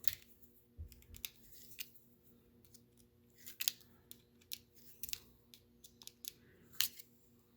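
Irregular light clicks and clinks of intake parts being handled and fitted by hand, a dozen or so short sharp ticks with pauses between them.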